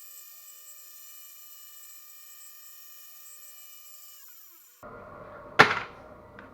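Aluminium TIG welding arc buzzing steadily at a high pitch, which slides down in pitch and stops about four and a half seconds in. Less than a second later comes a single sharp knock.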